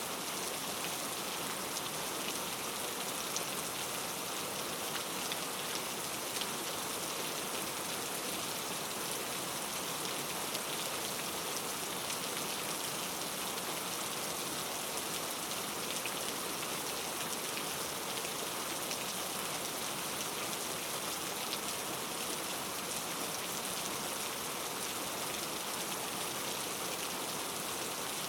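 Steady rain falling, an even hiss with many fine individual drop patters.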